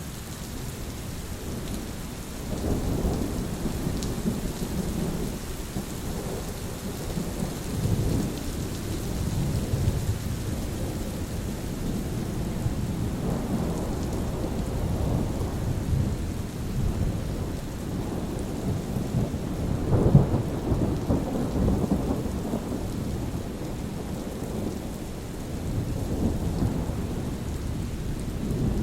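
Steady rain with rolling thunder: low rumbles swell and fade several times, the loudest about twenty seconds in, over a constant hiss of rain.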